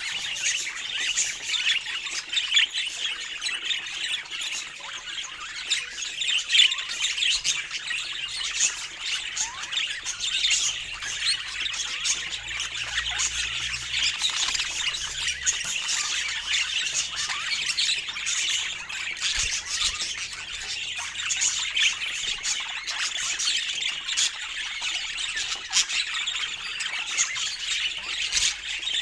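A group of budgerigars chirping and chattering without pause, many short high calls overlapping.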